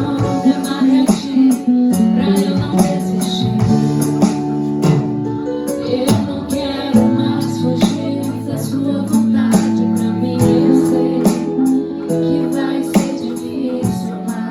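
Live worship band playing an instrumental passage: sustained keyboard chords that change every second or two, with guitar, and a drum kit keeping a steady beat of cymbal and drum strikes.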